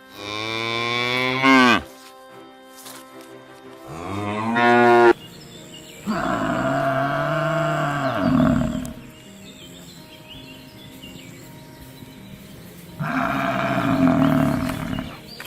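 Cattle mooing: four long, drawn-out moos, the first two rising sharply in pitch at the end, the later two longer and lower.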